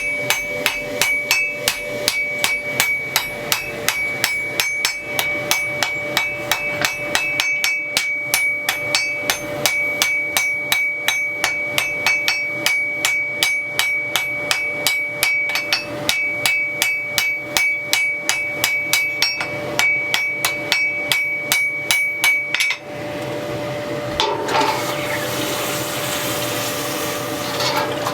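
Hand hammer striking a hot damascus steel billet on an anvil, about three blows a second with the anvil ringing, while the billet is forged after fire welding. About 23 seconds in the hammering stops suddenly and a steady rushing hiss takes over, all over a steady hum.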